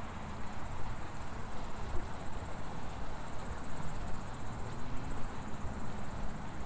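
Crickets or grasshoppers in the park grass chirping in a steady, high-pitched, rapidly pulsing trill, over a low rumble of wind or handling noise on the microphone.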